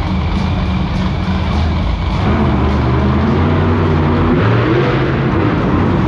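Monster truck engines running loud and revving, their pitch climbing from about two seconds in.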